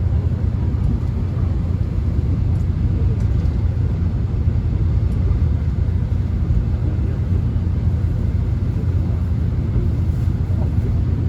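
Subway train running, heard from inside the passenger car: a steady low rumble that stays even throughout.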